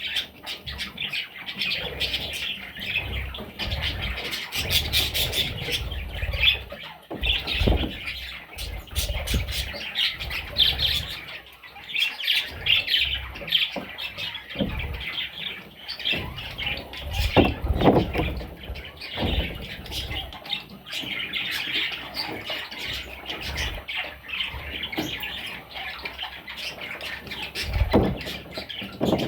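Budgerigars squawking and chattering continuously in harsh, scratchy calls, with a few dull knocks now and then.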